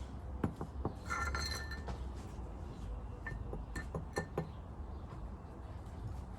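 Scattered clinks and light knocks of hard objects, a dozen or so irregular strikes, some with a brief ringing note.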